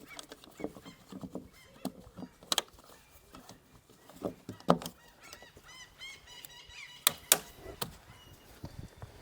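Geese honking in short calls, with several sharp metallic knocks and clicks from work on the machine, the loudest about seven seconds in; a small bird chirps briefly in the middle.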